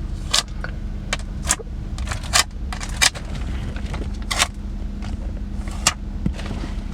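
Irregular sharp clicks and crackles, about a dozen, over a steady low hum.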